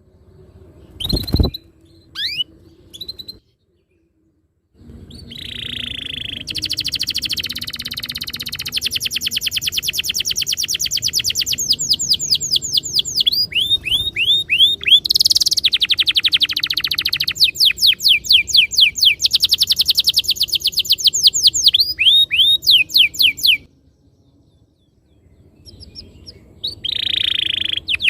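Domestic canary singing long rolling trills of very fast repeated high notes, broken by runs of separate sweeping whistled notes; it pauses a few seconds before the end, then starts again. About a second in, a single low thump, followed by a few short chirps.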